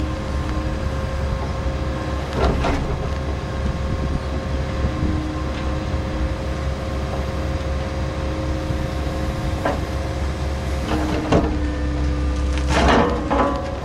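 Liebherr log loader's diesel engine running steadily with a low rumble and a steady whine, while logs are handled onto a log truck. There are several clunks, the loudest cluster near the end.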